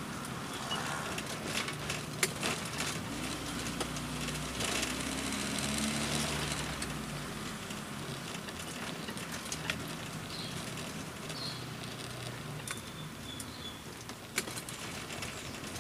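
VW Voyage's engine running while driving, heard from inside the cabin: a steady low hum that swells a few seconds in, then eases back, with a few light clicks and rattles.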